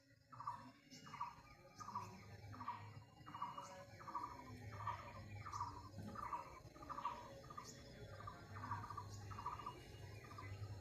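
A bird repeats one short, pulsing note over and over at an even pace, a little under two a second, with scattered brief high chirps from other birds.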